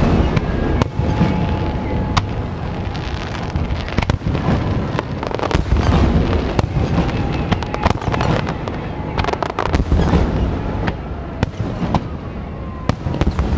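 Large aerial fireworks display: a dense, continuous barrage of shell bursts, with many sharp bangs and crackles over a constant low rumble.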